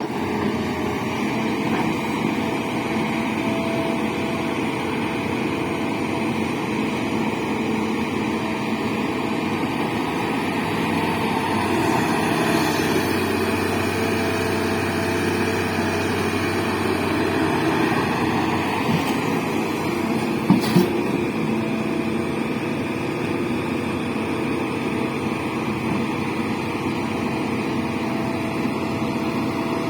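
Diesel engine of an earth-moving machine running steadily at work, with two sharp knocks close together about two-thirds of the way through.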